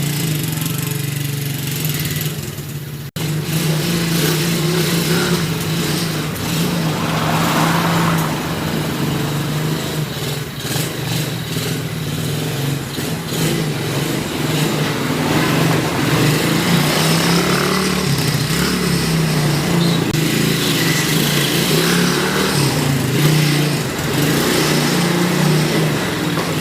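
Quad bike (ATV) engine running steadily as it is ridden, its pitch wavering a little, with a brief dropout about three seconds in.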